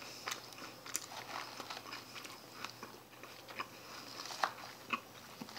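Chewing a mouthful of crunchy lettuce salad, with scattered light clicks of a metal fork against a plastic bowl.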